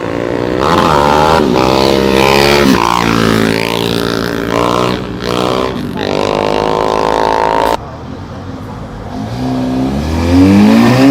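Car engines revving and accelerating hard, the pitch climbing and dropping as the throttle is worked; the sound drops off suddenly about eight seconds in, and another engine starts building revs near the end.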